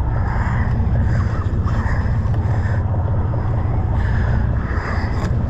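Steady low rumble of a sportfishing boat's engine running, with a wash of wind and water noise over it.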